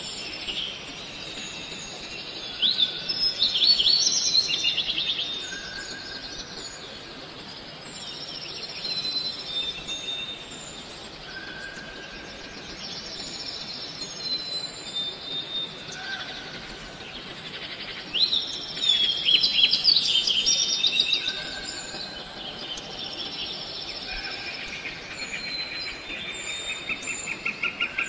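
Several birds calling: repeated short whistled notes over a faint steady background, with louder bursts of quick rising chirps about three seconds in and again about eighteen seconds in, and a fast, evenly pulsing call starting near the end.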